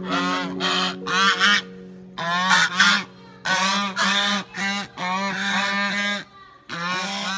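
Goose honking, a rapid series of about ten loud, nasal honks with short gaps between them.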